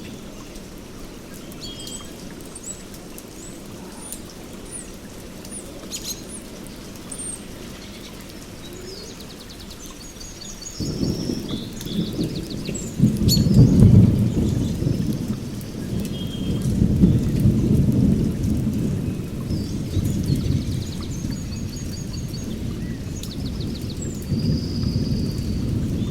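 Steady rain with birds chirping over it; about eleven seconds in, a deep rumble of thunder begins, loudest a couple of seconds later, then rolls on in slow swells.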